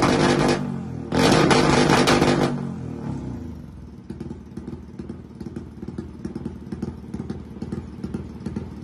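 Tuned motorcycle engine, built with a 65 mm bore, revved hard twice in quick succession. It then drops back to a lumpy, uneven idle with irregular pops.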